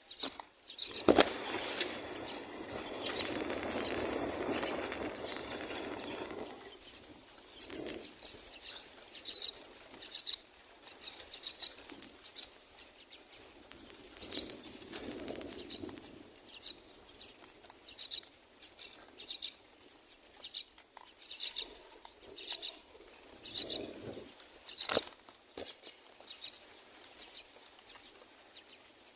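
Common myna nestlings giving short, high chirps over and over. About a second in, a loud flurry of wing flapping and rustling in the nest lasts several seconds.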